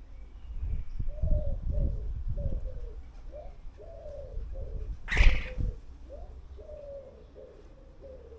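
Birds at a garden feeder calling: a run of short, low, curving calls repeats throughout, with one sudden loud burst about five seconds in.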